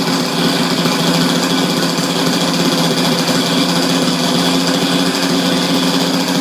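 Single small gasoline engine of an RC quadcopter running loudly at a steady speed, an even, fast mechanical buzz with no change in pitch.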